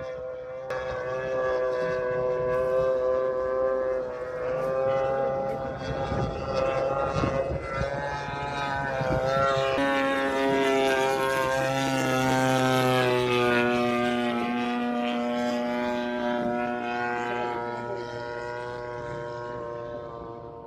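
Gas engine and propeller of a radio-controlled scale Stinson Reliant model plane droning in flight, growing louder through the middle as the plane passes and then easing off.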